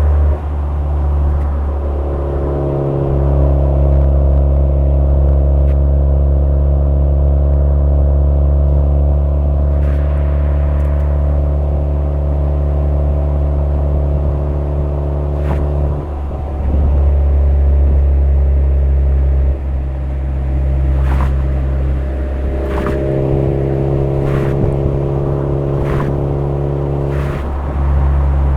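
Suzuki Swift Sport ZC33S's 1.4-litre turbo four-cylinder engine droning through a Fujitsubo aftermarket exhaust while driving, the note steady with a few step changes in pitch and level as the throttle and speed change. A few brief ticks sound in the second half.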